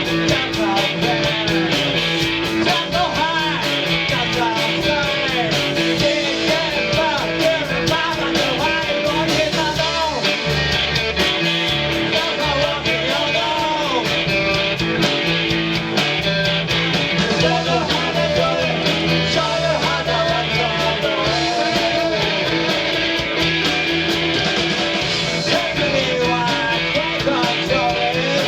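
A rock band playing live: electric guitar over bass and a steady drum beat, with a wavering melodic line on top.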